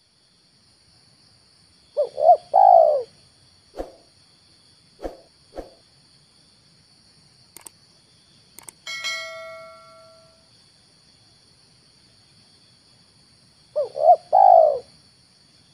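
Spotted dove cooing: a three-note phrase, two short notes and a longer one, about two seconds in and again near the end, with a few short soft coos between. About nine seconds in there are a couple of clicks and a short bell-like metallic ring that fades away.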